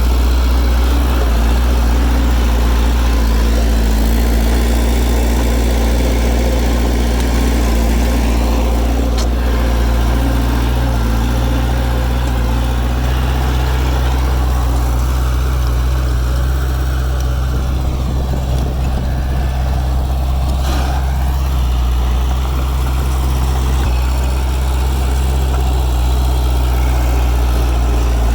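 Heavy diesel engine of an earthmoving machine running steadily at a constant low pitch, without revving.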